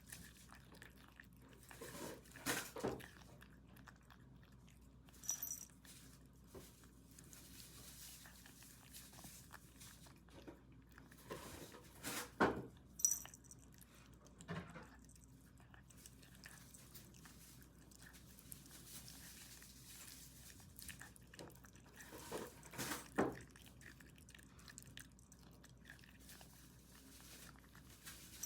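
A cat chewing and biting its food in three short bouts of crunchy clicks, with quiet pauses between.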